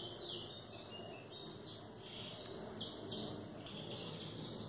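Faint bird chirping: a run of short, falling chirps, about two a second, over a low steady hiss.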